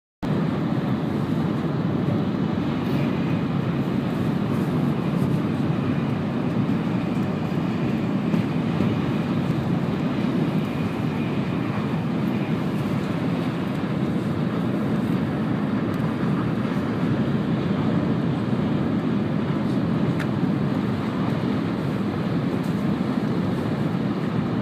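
Steady cabin noise of an N700-series Shinkansen train running at speed, a constant low rumble of wheels, rails and rushing air heard from inside the passenger car.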